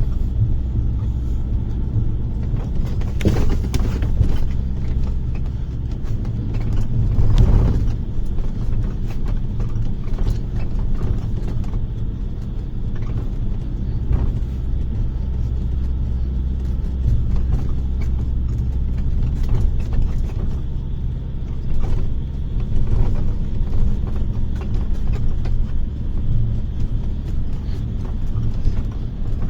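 Bus heard from inside the cabin while driving: a steady low engine and road rumble with scattered rattles and creaks, swelling twice in the first few seconds.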